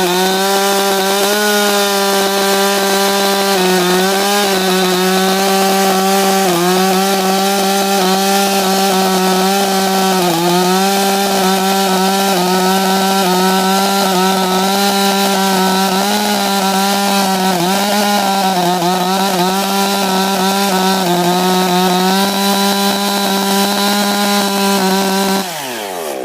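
Ported Husqvarna 357 XP two-stroke chainsaw at full throttle, cutting into a peeled white pine log. Its pitch dips briefly every few seconds as the chain loads up. Near the end the throttle is released and the engine winds down.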